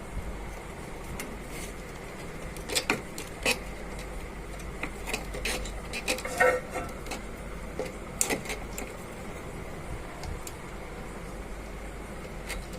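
Scattered light clicks and metallic clinks of small tools and parts being handled on a workbench, over a steady low hum.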